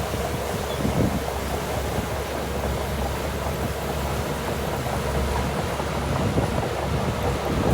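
Heavy diesel earthmoving machinery running steadily: a continuous low engine drone with irregular clatter over it.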